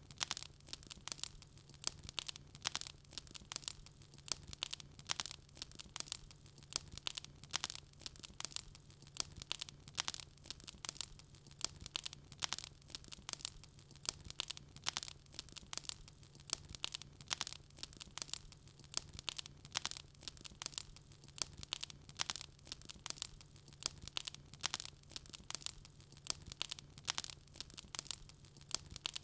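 Wood fire crackling in a fireplace: a dense, irregular stream of small pops and snaps, with a faint steady low hum beneath.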